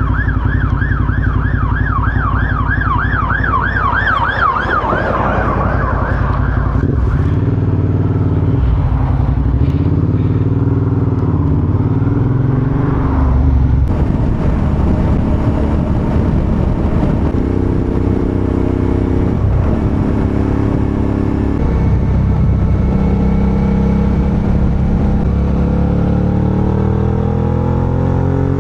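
A fast-warbling emergency siren from a passing fire engine fades out over the first five seconds or so. Then the Suzuki V-Strom 650XT's V-twin engine runs on the move, its pitch changing in steps and rising near the end.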